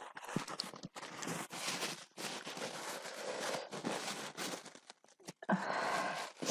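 Close-up crunching and chewing of food, a steady run of crisp, uneven crunches with short breaks, and a louder burst near the end.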